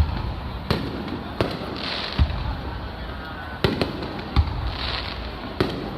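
Aerial fireworks shells bursting, about six sharp bangs at uneven intervals over a steady background. A few of the bangs carry a deep boom, and there is a brief hiss twice.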